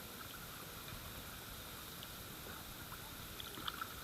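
Steady rush of river water around a kayak, with a few faint short splashes or knocks about three and a half seconds in.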